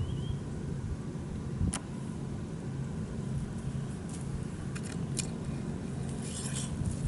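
A steady low hum, with a few sharp clicks and a short rustle near the end.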